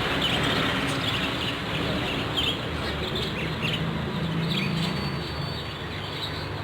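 Caged pet birds chirping over a steady noisy background, with many short high chirps overlapping.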